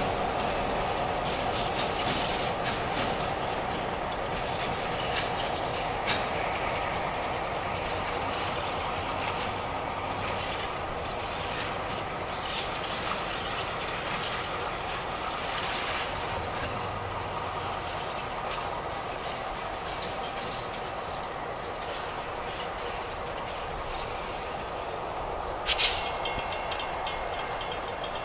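Freight train's railcars rolling past on the rails, a steady rumble with wheels clicking over the track. Near the end a sudden sharp high-pitched squeal starts and carries on faintly.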